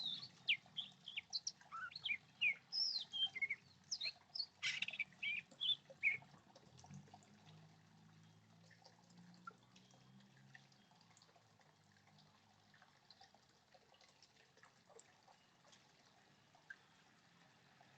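Small birds chirping and twittering: a busy run of short high calls in the first six seconds, then only a few scattered faint chirps.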